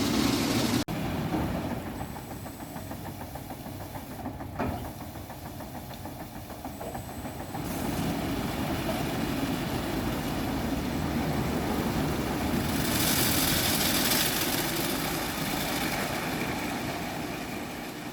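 Automatic car wash running: a steady mechanical drone, with a hissing spray of water swelling and fading between about 13 and 15 seconds in.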